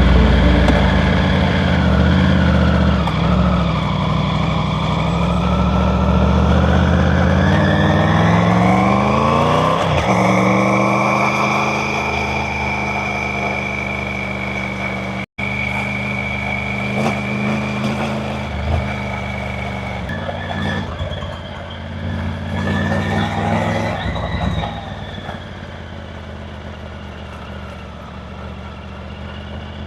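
Triumph Tiger 900 Rally Pro's three-cylinder engine under way: the revs climb for several seconds, drop at a gear change about ten seconds in, and then hold steady. The sound cuts out for an instant about halfway through and runs quieter at lower revs near the end.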